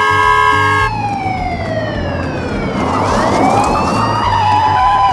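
Emergency vehicle siren wailing in slow glides, falling and then rising again, with a second siren wail starting about three seconds in. A steady horn-like tone sounds during the first second.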